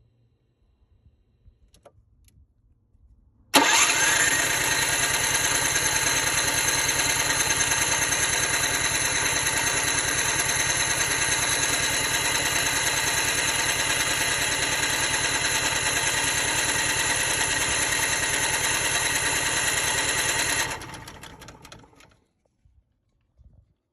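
Cummins Onan 2500 LP propane generator cranked by its starter for about 17 seconds without starting. It comes in suddenly with a brief rising whine, runs steadily, then winds down once the starter is let go. This is the crank-but-no-start condition the owner is trying to diagnose.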